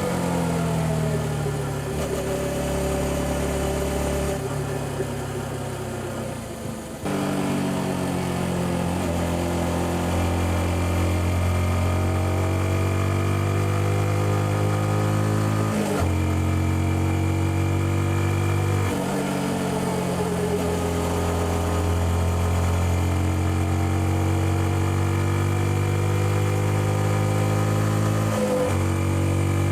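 Yamaha XSR155's single-cylinder four-stroke engine heard through its stock exhaust while riding. The note falls as the bike slows off the throttle, then picks up again about a quarter of the way in. It climbs slowly, broken sharply by gear changes about halfway, soon after, and near the end.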